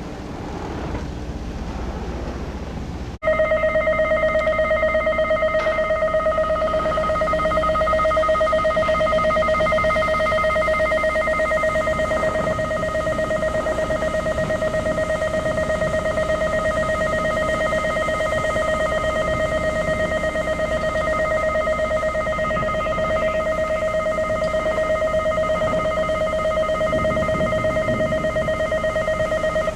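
Low engine and wind rumble, then about three seconds in an electric bell starts ringing loudly and continuously, a fast, steady metallic ring that holds to the end.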